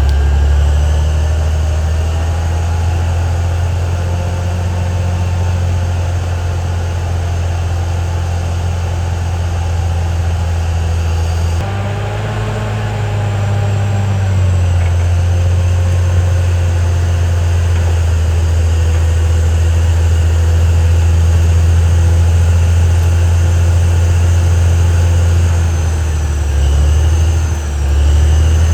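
Caterpillar D6R XL bulldozer's diesel engine running at working revs, a loud, deep, steady drone with faint whines above it. The engine note shifts up slightly about twelve seconds in and dips briefly twice near the end.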